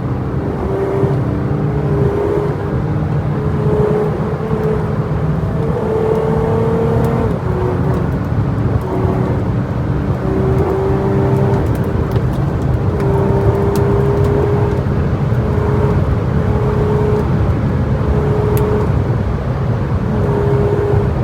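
A vehicle engine running steadily under load, with a whine that holds and then steps up and down in pitch as the speed changes.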